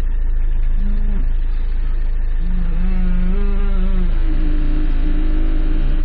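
Peugeot 307 steering creaking, a pitched, wavering groan as the wheel is turned. It comes briefly about a second in, more strongly from about two and a half to four seconds, then as a higher tone near the end. The car's engine idles steadily underneath.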